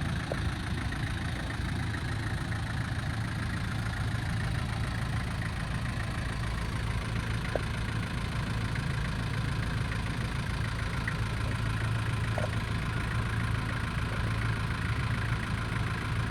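Nissan TD27 four-cylinder diesel engine idling steadily, with a few faint ticks.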